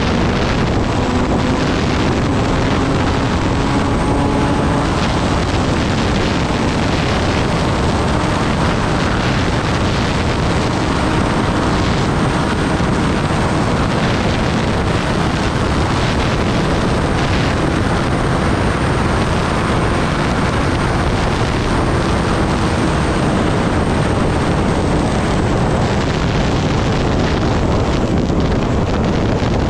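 Kawasaki Ninja ZX-10R's inline-four engine running at steady speed, buried under heavy wind rush on the microphone. The engine tone drifts slowly up and down.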